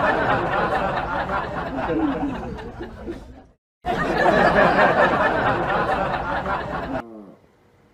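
People's voices mixed with laughter and chatter, dense and noisy; it cuts out briefly about three and a half seconds in, starts again, then stops about seven seconds in.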